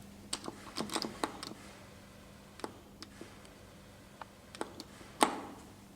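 Relay clicks from the controller of an original, unmodernised Otis bottom-drive traction lift: a scatter of sharp, irregular clicks, the loudest about five seconds in, over a steady low hum.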